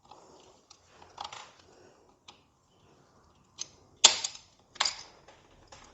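Sharp, irregular metallic clicks and taps of a hand tool working at a stubborn retaining clip during a motorcycle clutch teardown. Several separate clicks, the loudest about four seconds in.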